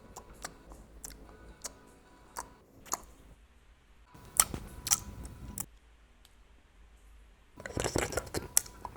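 A person making odd mouth noises: scattered sharp clicks and smacks, with a denser, louder run of noise near the end.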